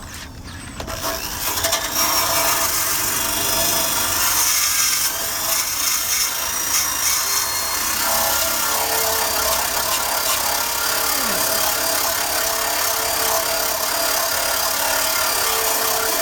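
Drill-driven wire brush scrubbing the bare steel undercarriage of a motorcycle frame. It spins up about a second in, then runs steadily as a harsh scratching hiss.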